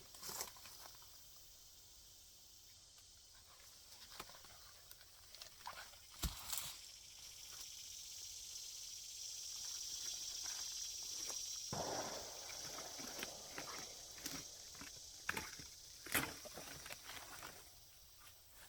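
Faint outdoor ambience: a steady high hiss that swells through the middle and fades again, with scattered light clicks and rustling.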